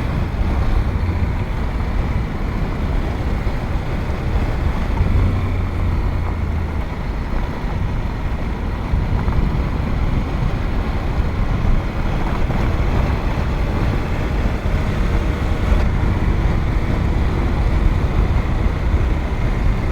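Adventure motorcycle riding along a graded dirt road: the engine runs steadily under wind and tyre noise, a constant low rumble with no sudden events.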